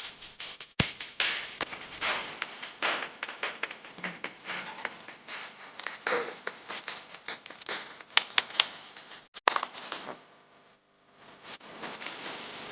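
Irregular taps, clicks and rustling from hands handling small parts and tools at close range, with a brief quiet stretch about ten seconds in.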